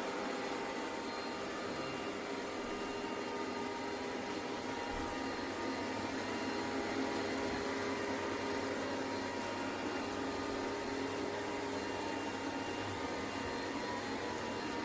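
ECOVACS Deebot T50 Omni robot vacuum running: a steady motor hum and airflow hiss with several fixed whining tones over it.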